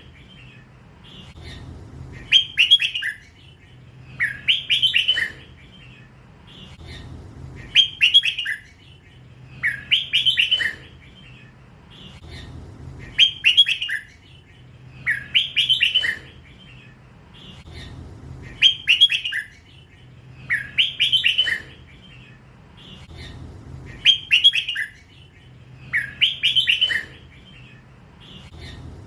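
Young hybrid red-whiskered bulbul singing its 'lak wai' song: a loud, clear phrase of about a second, repeated at even intervals roughly every two and a half seconds.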